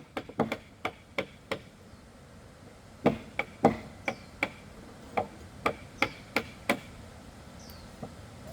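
Repeated sharp blows of a hand tool striking wood, about two a second. A short run of blows stops about a second in, and the blows resume about three seconds in.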